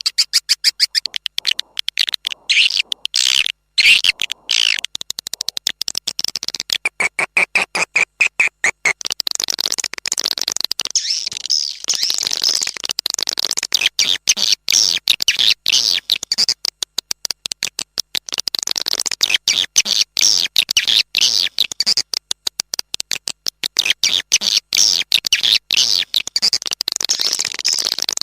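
Swiftlet call sound used to lure swiftlets into a swiftlet house: a dense, rapid chatter of high swiftlet chirps and twitters, with a held high tone about a quarter of the way in.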